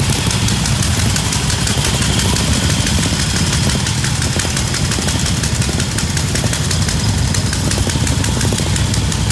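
Vintage pre-1931 motorcycle engine running steadily, with a fast, even beat of firing pulses.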